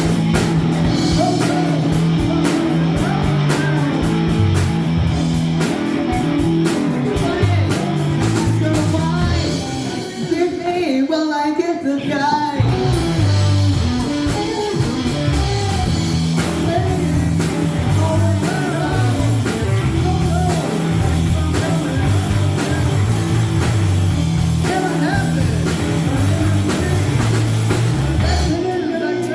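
Rock music with singing and electric guitar. About ten seconds in, the full band drops away for a couple of seconds, leaving a single wavering melodic line, then comes back.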